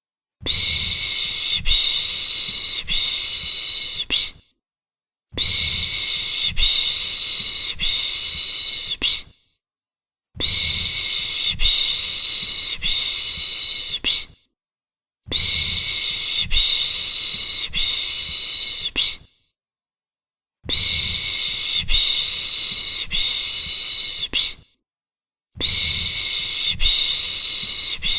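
A person's voice making the soothing 'piş piş' shushing hiss used to lull a baby to sleep, in repeated stretches of about four seconds with a pause of about a second between. Each stretch pulses a few times.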